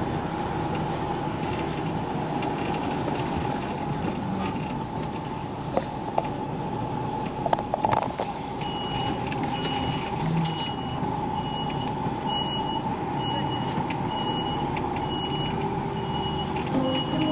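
HGV lorry engine running with a steady drone. From about halfway through, its reversing alarm beeps at an even pace, roughly three beeps every two seconds, as the lorry backs up. A few knocks and clicks come a little before the beeping starts.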